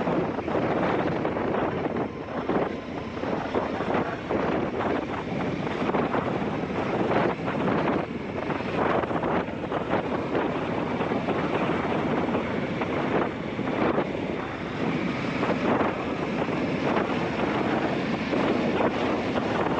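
Heavy wind noise buffeting a GoPro's microphone on a moving motorcycle, rising and falling in uneven gusts.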